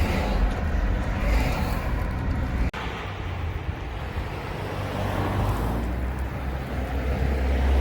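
Steady low rumble of a motor vehicle, with an abrupt break about a third of the way through.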